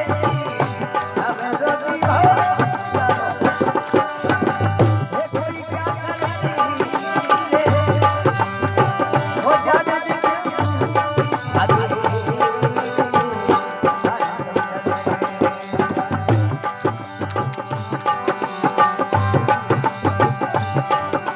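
Indian folk devotional music: an instrumental passage with a melody carried over a steady drum rhythm.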